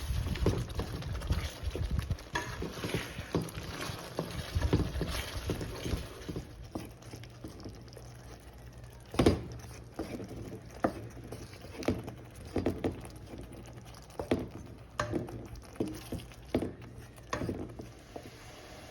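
Chicken being stirred in a cooking pot with a spatula, the food simmering: irregular scrapes and knocks of the utensil, busy for the first six seconds or so, then sparser single knocks.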